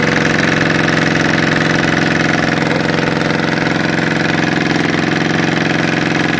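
Prototype four-stroke opposed-piston engine with a rotary valve and no crankshaft, running steadily and loudly on a carburettor with an open exhaust and no muffler. Its ignition timing is set with no advance and still needs adjusting.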